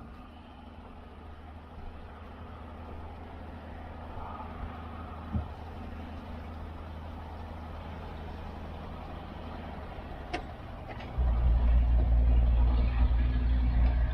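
Small outboard motor running with a steady low hum, suddenly much louder about eleven seconds in.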